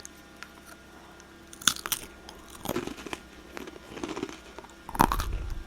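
Close-up crunching and chewing of a snack, a few separate crisp crunches with the loudest near the end.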